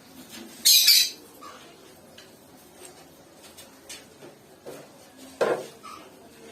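Pet lovebird (red opaline) giving a short, harsh squawk about a second in, with light clicks and taps around it and a shorter, lower sound near the end.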